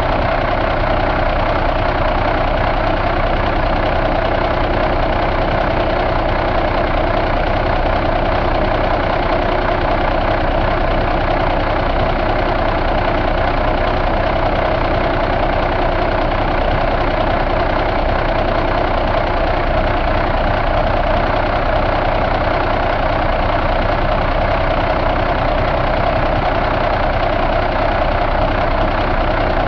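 2009 Cummins ISX inline-six diesel engine idling steadily.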